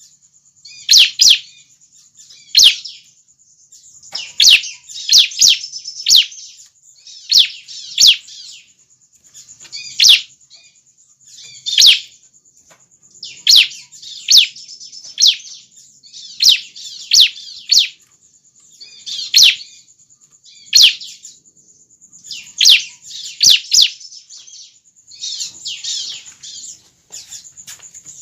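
Juvenile bar-winged prinia (ciblek) calling: short, high-pitched chirps in clusters repeated every second or two.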